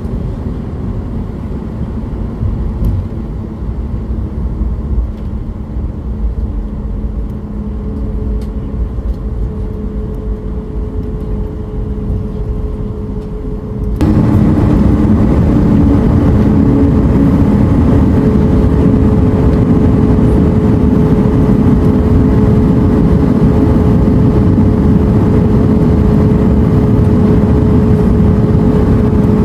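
Boeing 737-8200 jet airliner noise: a steady rush with a constant hum, which jumps sharply louder about halfway through and then holds.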